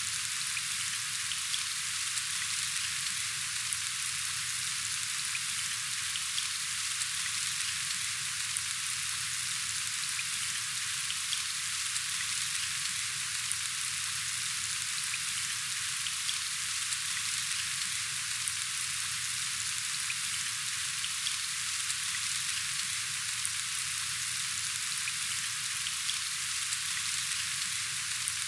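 Steady rain falling, an even hiss with faint ticks of single drops scattered through it.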